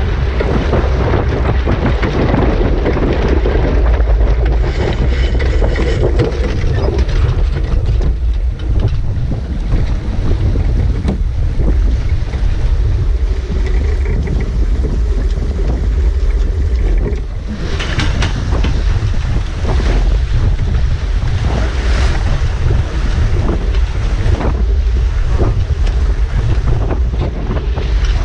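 Wind buffeting the microphone aboard a sailboat under way, over a steady rush of water along the hull. A few louder bursts of water noise come through, the strongest about eighteen seconds in.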